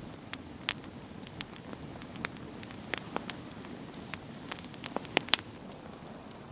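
Wood campfire burning, with irregular sharp crackles and pops over a steady low hiss. The pops come more often and louder about five seconds in.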